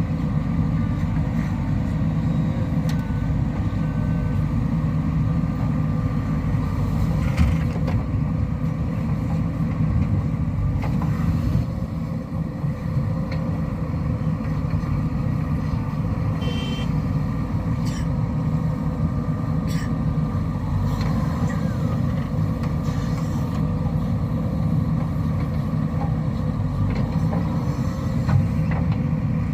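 Heavy diesel engine running steadily with a deep low rumble, with a few faint knocks.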